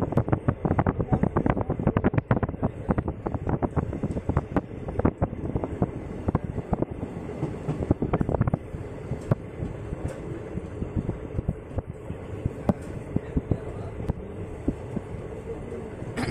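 Shaktipunj Express passenger train running at speed, heard from on board: wheels clattering fast over rail joints over a steady rumble. The clatter is dense for about the first half, then thins to a smoother run with occasional knocks.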